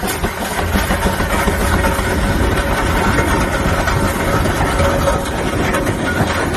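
Steam traction engine running steadily, a constant heavy low rumble with steam hiss above it; it gets a little louder under a second in.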